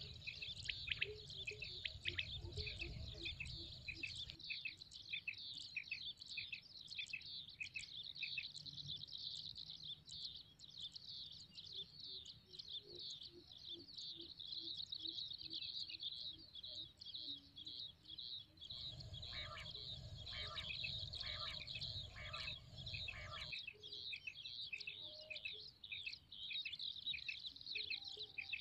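Birds chirping in a rapid, unbroken run of quick high chirps. A low rumble comes in for a few seconds about two-thirds of the way through.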